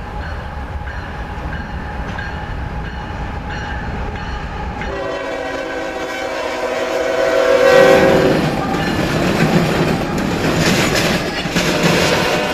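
Canadian National freight train's diesel locomotives approaching with a low rumble. About five seconds in, the air horn sounds one long blast of about three seconds. Then the train passes close with loud wheel-on-rail clatter.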